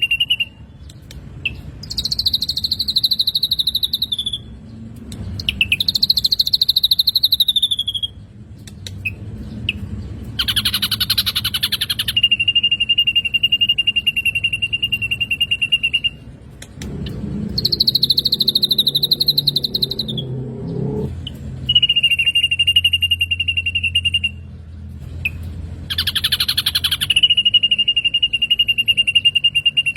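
Black drongo song from a looped recording. Long, fast, buzzy trills held on one pitch alternate with higher, slightly falling phrases and short harsh chatters.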